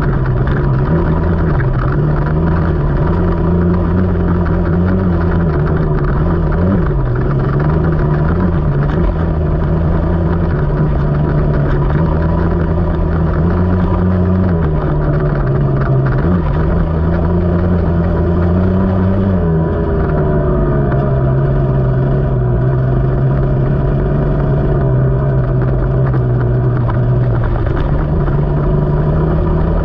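KTM 300 two-stroke single-cylinder dirt bike engine running under way on a trail, its note holding mostly steady and shifting up and down with the throttle, with a few short dips as the throttle is eased.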